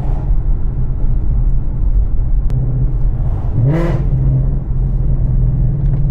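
Ford Mustang GT (S650) 5.0 V8 with catless longtube headers running while driving, a loud, steady low rumble. About three and a half seconds in, the engine's pitch rises briefly, then holds a little higher.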